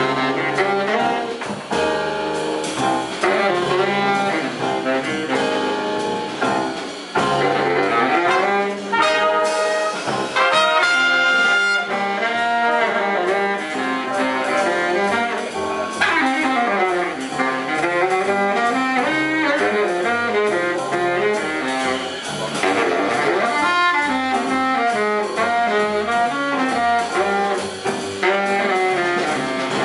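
Big band playing jazz live, with the brass section of trumpets and trombones and the saxophones playing together in full ensemble.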